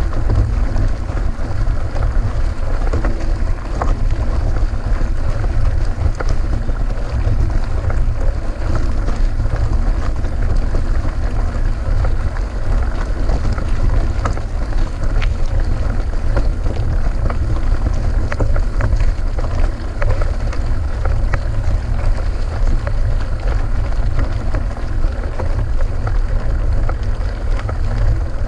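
Wind buffeting a GoPro's microphone during a mountain-bike ride: a steady low rumble, with scattered small clicks and rattles over it.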